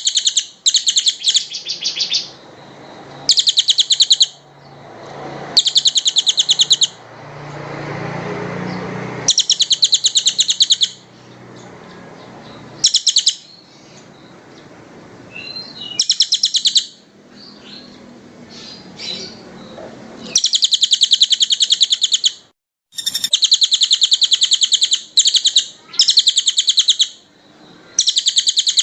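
A songbird singing rapid, tightly packed high trills in repeated bursts of one to a few seconds each, from a bird-training master recording of fast song. A low rumbling background swells and fades between bursts about a third of the way in, and the sound drops out completely for a moment about three quarters of the way through.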